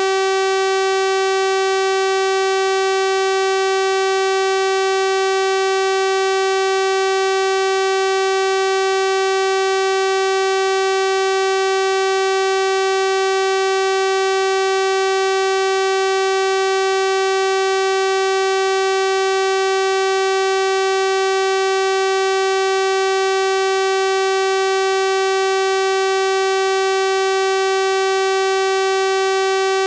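Synthesised 384 Hz sawtooth wave: a single steady buzzy tone, rich in harmonics, held without change.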